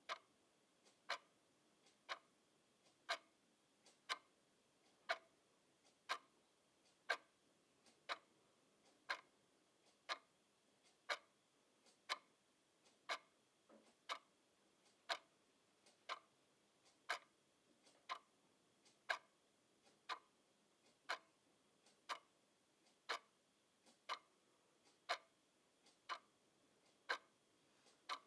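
Clock ticking steadily, about one tick a second, with strokes alternating louder and softer like a tick-tock.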